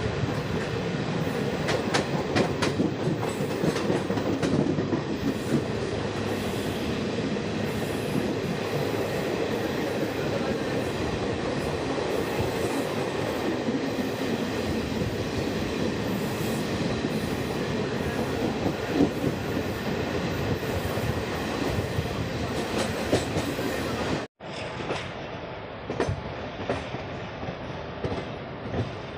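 Express train running along the line: a steady rumble with wheels clattering over rail joints. The sound cuts out abruptly about 24 seconds in and comes back quieter and duller.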